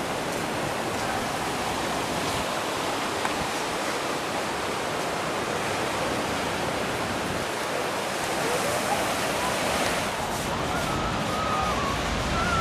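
Steady wash of ocean surf breaking below the pier, with faint wavering voices in the background in the later seconds.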